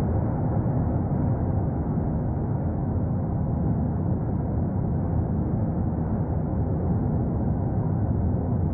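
Steady, low rumbling roar of the erupting Cumbre Vieja volcano on La Palma, continuous and unbroken.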